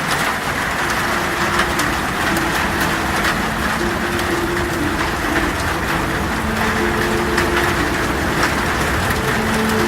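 Heavy rain on a metal roof: a dense, steady hiss full of tiny drop hits, over a low storm rumble. Faint held tones rise and fall at a few pitches underneath.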